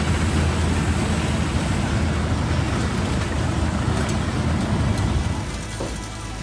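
Large mobile wood chipper running: a steady, loud diesel engine drone with machine noise over it, getting quieter about five and a half seconds in.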